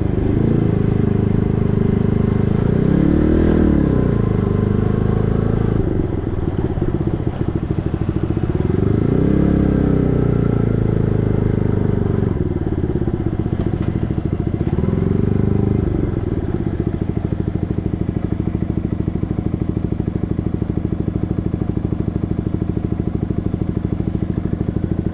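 Yamaha MT-15's 155 cc single-cylinder engine through an SC Project full-system exhaust, its revs rising and falling three times and then settling to a steady, evenly pulsing idle a little past halfway.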